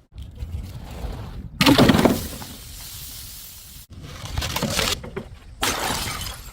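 A run of short, cut-together smashing and crunching sounds as objects break and are crushed. The loudest is a crash about one and a half seconds in, and shorter bursts of crunching come near the middle and the end.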